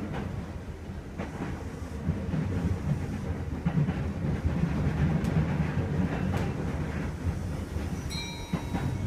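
Kintetsu 2430 series electric commuter train running, heard inside the car: a steady low rumble from the running gear, with now and then the click of wheels passing over rail joints. A brief high ringing tone comes in near the end.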